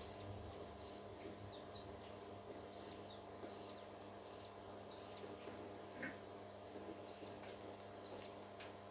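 Faint, high-pitched peeping of a newly hatched parrot chick: many short cheeps in irregular runs, over a steady low hum.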